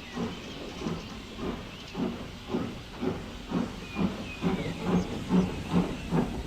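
Steam locomotive chuffing as it pulls away, the exhaust beats getting louder and quickening from about two a second towards three.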